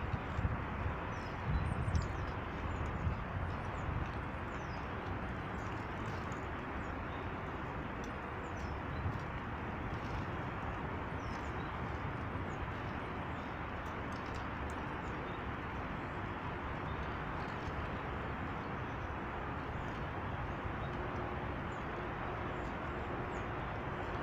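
Small birds chirping faintly and sporadically over a steady rushing background noise, with a few low thumps in the first few seconds.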